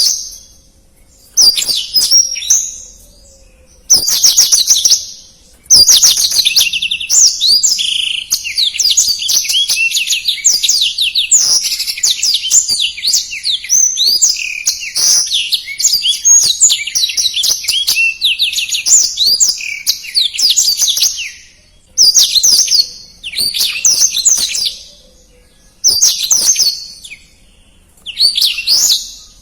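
Blackthroat (black-throated canary) singing fast, dense trilled song phrases. Short bursts come first, then one long unbroken run of about fifteen seconds from around six seconds in, then short phrases again with brief gaps.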